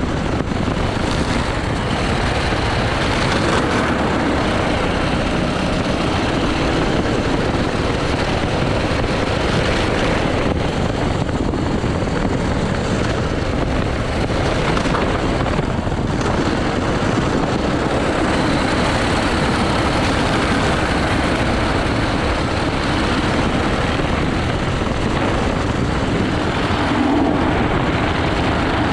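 80cc go-kart engine running hard through a lap, its pitch rising and falling as the kart accelerates and slows for corners.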